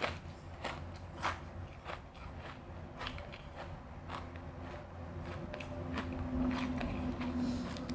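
Close-up biting and crunching of refrozen crushed ice, in irregular crisp crunches a fraction of a second apart. A steady low hum sits underneath in the second half.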